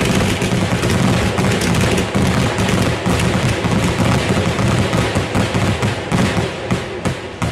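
Fireworks barrage: many shells bursting in rapid, overlapping succession, a continuous mix of deep booms and sharp cracks.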